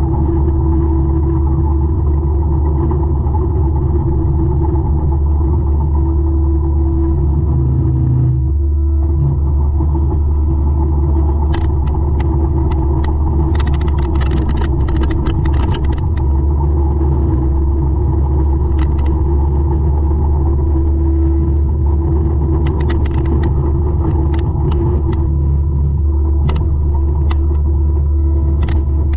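200-horsepower forestry mulcher running steadily under load, its diesel engine humming low with a constant tone above it and a brief dip about eight seconds in. Scattered sharp clicks and knocks come in two clusters, in the middle and again near the end.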